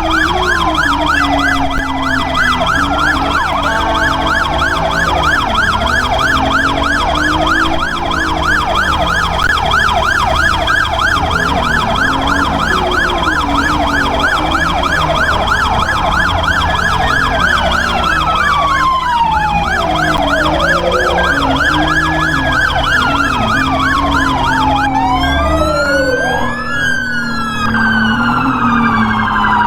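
Police car sirens during a pursuit. For the first half the siren is on a fast yelp, a few sweeps a second. It then switches to a slower wail of long rising and falling sweeps, and more sirens join near the end. A steady low vehicle rumble runs underneath.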